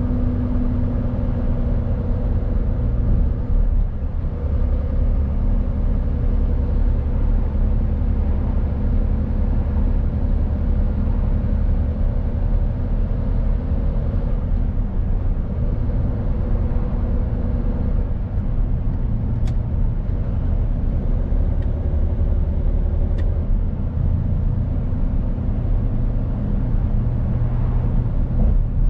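Mercedes-Benz Actros truck's diesel engine running as the truck is driven, a steady low drone with road noise underneath and an engine note that shifts a few times. A few faint clicks sound in the second half.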